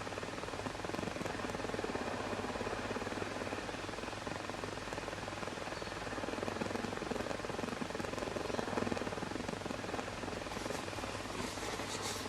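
Homemade methylated-spirit jet burner (a 'Supa Burner') running, its superheated spirit vapour burning as a jet with a steady rushing hiss; the jet is warming up and getting more intense. A few faint clicks near the end.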